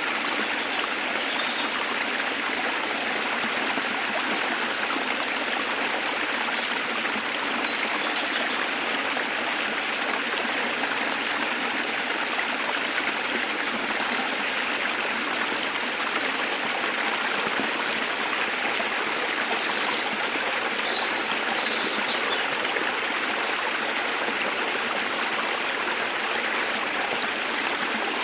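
Waterfall's steady rush of falling water, unchanging throughout, with a few faint, brief high bird chirps now and then.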